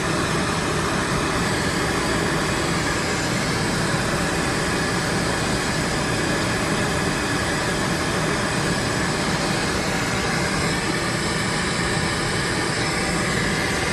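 Pink noise test signal played through a car audio system's speakers, a steady even hiss, used to measure the cabin's frequency response with a corrective EQ applied.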